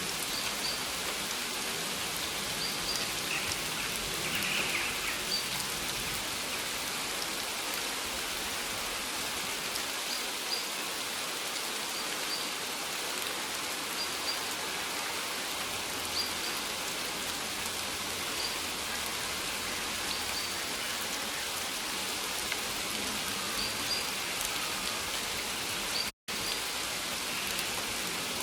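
Steady rain falling, an even hiss of many drops on surfaces. The sound cuts out for a split second near the end.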